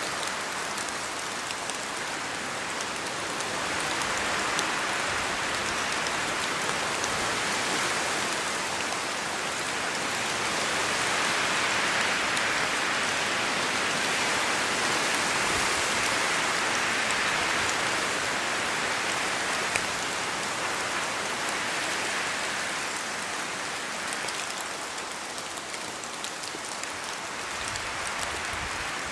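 Steady rain falling on forest trees, a dense hiss of drops on leaves that slowly swells and eases, as if with gusts of wind.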